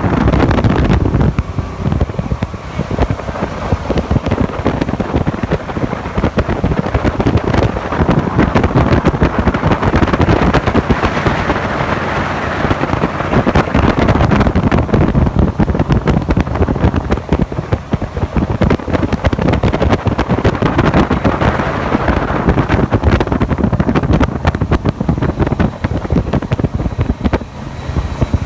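Jet boat under way: its engine runs steadily beneath heavy, buffeting wind noise on the microphone.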